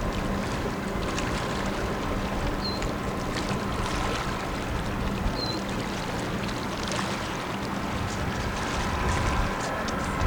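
Tugboat's diesel engines droning steadily while it pushes a loaded barge, a low continuous rumble with a faint hum. A short high chirp sounds twice.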